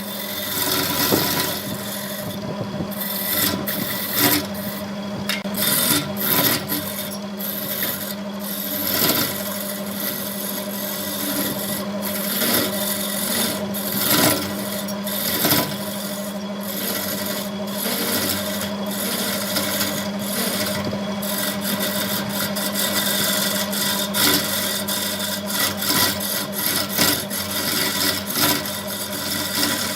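Wood lathe running with a steady motor hum while a tool scrapes against the spinning wood. The rasping keeps breaking off for a moment and starting again.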